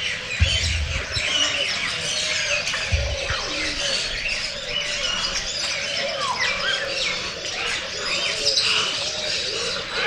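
Many small birds chirping and twittering together in a dense, steady chorus. Two brief low thumps come about half a second and about three seconds in.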